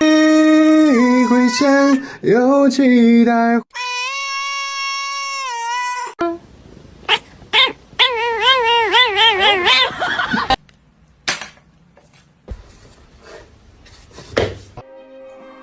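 A cat making long, drawn-out meows and yowls: a call that bends in pitch, then a held call, then a wavering yowl. A few scattered knocks and clicks follow.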